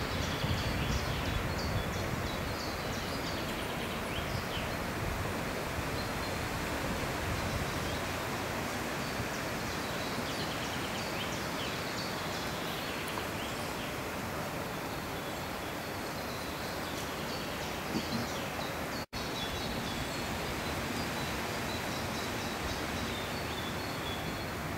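Small birds chirping and singing in a leafy woodland over a steady background hiss. The sound drops out for an instant about nineteen seconds in.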